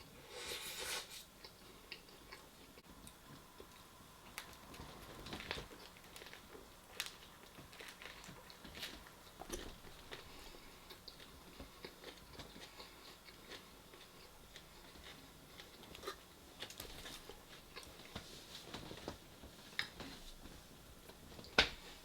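Close-up chewing and biting of a chicken torta: soft bread and filling being chewed, with scattered small crackles and wet mouth clicks, and a louder bite about a second in.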